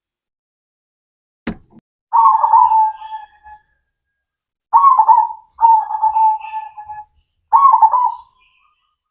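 Zebra dove (perkutut) cooing: four separate cooing phrases, after a single sharp click about a second and a half in.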